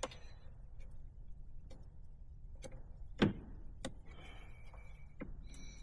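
Small plastic, rubber and metal intake mounting parts being handled and pressed together: a few light clicks and knocks, the loudest about three seconds in, with faint rustling between.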